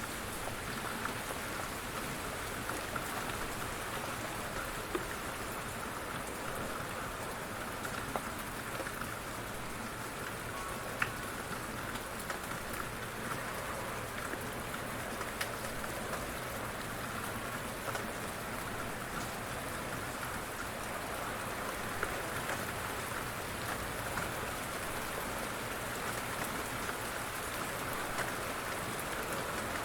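Steady rain falling on surfaces, a continuous patter with many individual drops ticking sharply throughout.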